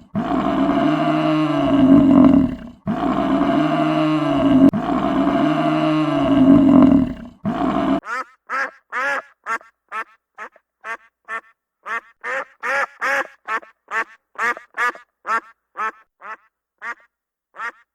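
Farm animal calls: several long, low, drawn-out calls rising and falling in pitch, one after another. About eight seconds in they give way to a quick series of short calls, two or three a second.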